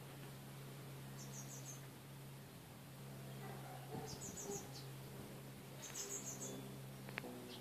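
A small bird chirping, faint: three short runs of four or five quick high chirps, over a low steady hum.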